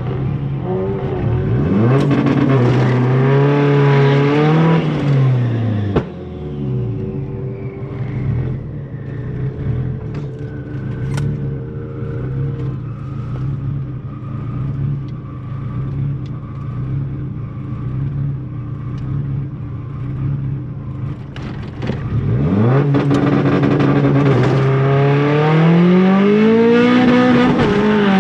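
Big-turbo 1.8T 20-valve four-cylinder engine of a Mk2 Golf revving up hard in the first seconds, then dropping suddenly near six seconds to quieter, lower running. From about 22 seconds it pulls hard again, the pitch climbing with the revs.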